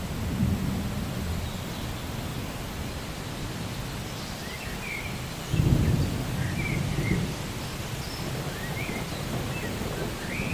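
Steady rain with low rolls of thunder, the strongest about halfway through. Short high bird chirps come in from about the middle on.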